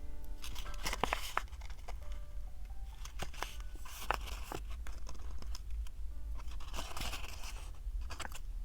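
Paper and sticker sheets handled close to the microphone: several short rustling, peeling bursts and light taps over faint background music.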